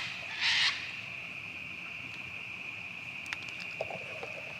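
Sulphur-crested cockatoo giving a short, harsh screech about half a second in, over a steady high drone of insects.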